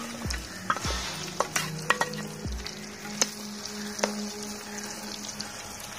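Boiled corn kernels frying in hot oil in a kadhai: a steady sizzle broken by sharp crackles about once a second, with a few dull knocks.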